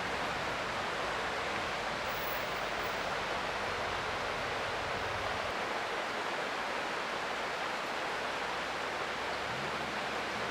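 Creek water flowing, a steady even rushing with no change.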